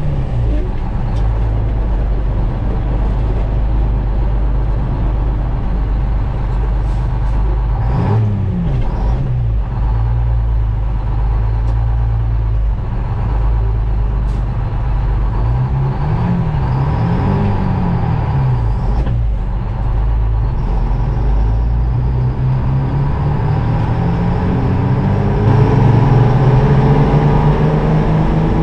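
GMC Crackerbox semi truck's Detroit Diesel engine pulling on the road, its pitch falling and rising again several times as the gears are shifted, and climbing steadily near the end. A few short sharp clicks sound over it.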